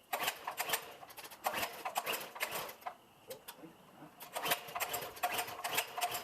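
Recoil pull-starter on the Massimoto mini bike's cold engine yanked several times, with quick ratcheting, clattering strokes as it cranks over without firing. The kill switch is in the off position.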